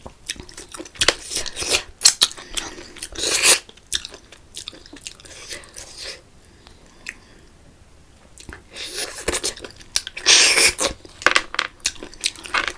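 Close-miked eating of spicy water snails: wet chewing and smacking with sharp clicks, and two longer sucking slurps, about three seconds in and again near ten seconds in, with a quieter pause in between.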